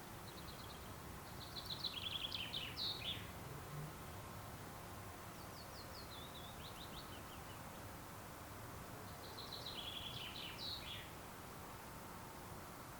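A songbird singing short, bright phrases of quick descending notes: one about two seconds in, a fainter phrase in the middle, and another much like the first near the end. A faint, steady outdoor hiss lies under the song.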